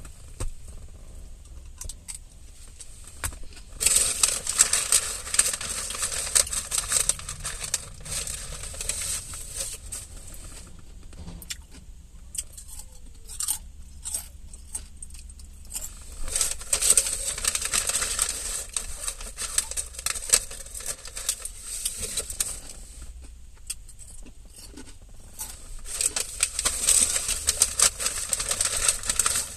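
Close-up chewing of crunchy salad greens, in three long stretches of crackling crunches starting about four, sixteen and twenty-six seconds in.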